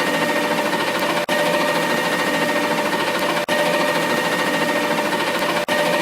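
Machinery running steadily with a fast rattle and a few steady tones, typical of a garbage truck's engine and equipment; it cuts out briefly three times.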